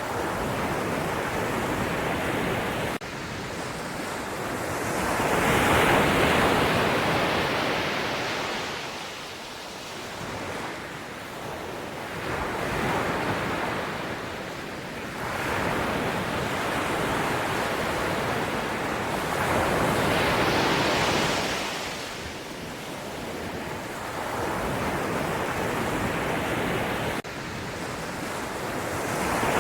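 Ocean waves breaking and washing in, the surf swelling and falling back every few seconds. Twice the level changes abruptly.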